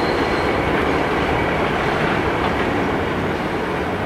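Class 43 High Speed Train running over the station pointwork: a steady loud rumble of its diesel power cars and its wheels on the rails, easing slightly near the end as it draws away.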